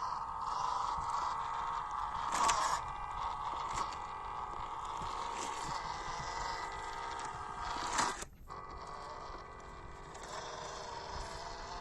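Small brushed electric motor and gearbox of a 1/16 WPL C24 RC crawler truck whining steadily as it crawls, with a sharp knock or scrape about two and a half seconds in and another near eight seconds.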